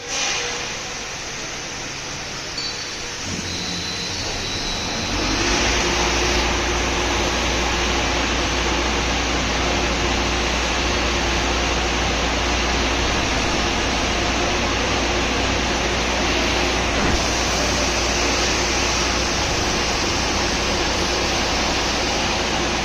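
CNC vertical drilling machine running: a steady machine noise that gets louder about five seconds in, where a low hum and a steady tone come in, and then holds.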